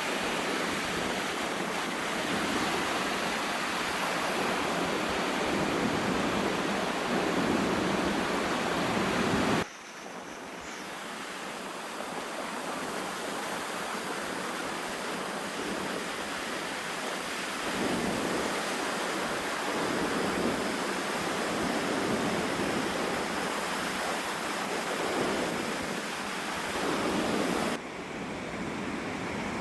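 Lake waves breaking and washing onto a beach, with strong wind buffeting the microphone. The sound swells every few seconds as waves come in, and drops abruptly about ten seconds in and again near the end.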